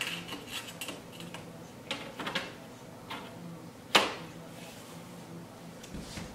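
Scattered knocks and clanks of the old fireplace's metal parts being handled during removal, a couple about two seconds in and the loudest single knock about four seconds in.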